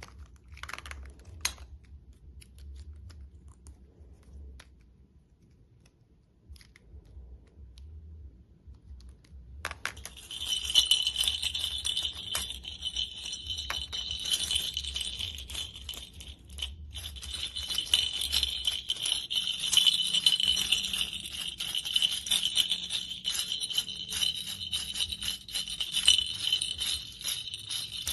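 A jingling toy rattle being shaken. A few faint clicks come first, then from about ten seconds in a steady, busy jingling rattle of many small strikes with a bright ring.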